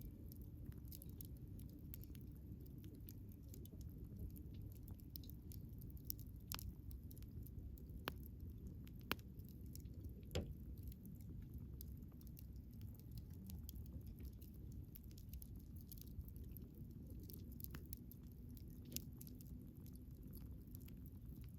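Wood campfire burning with a low steady rumble and scattered sharp crackles and pops. The loudest pops come a little before halfway through.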